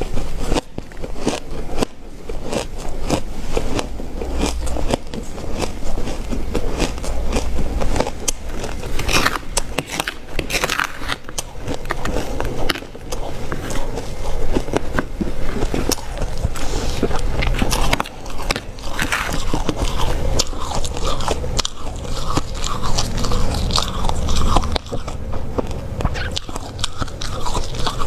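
Ice being bitten and chewed: a dense, continuous run of crisp crunching cracks.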